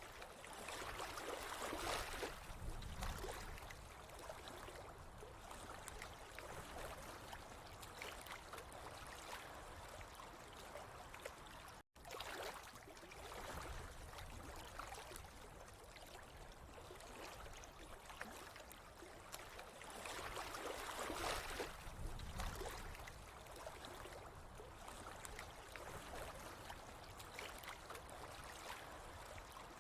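Running water trickling and gurgling steadily, swelling gently now and then; it cuts out for an instant about twelve seconds in.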